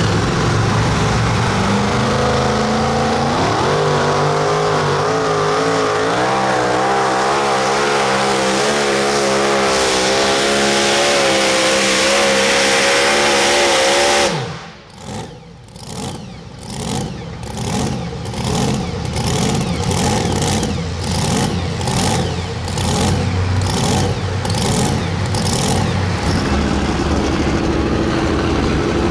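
A super modified two-wheel-drive pulling truck's engine revs up and runs at full throttle down the track, its pitch wavering. About 14 seconds in the throttle is chopped and the engine drops to a lopey, pulsing idle.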